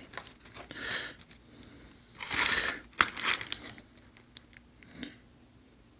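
Paper food wrapping crinkling and rustling as it is handled, in several irregular bursts, the loudest about two and a half seconds in.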